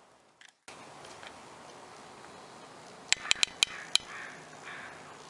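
Five sharp clicks in quick succession, a few seconds in, over a faint steady background.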